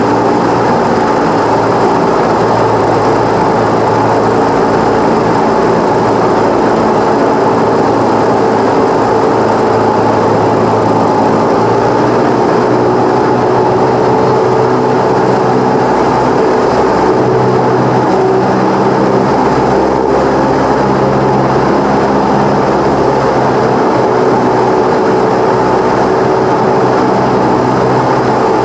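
Cessna 172's piston engine and propeller running steadily, a continuous drone whose note shifts slightly a couple of times.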